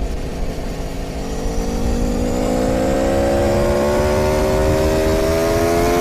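Aprilia Tuono V4's V4 engine accelerating hard in one gear, its pitch climbing slowly and steadily from about a second in.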